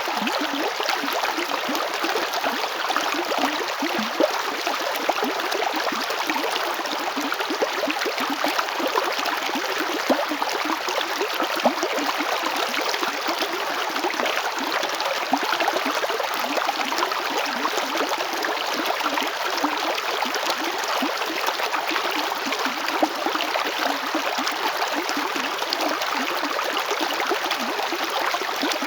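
River water flowing steadily over stones, a continuous rushing with small splashes and gurgles throughout.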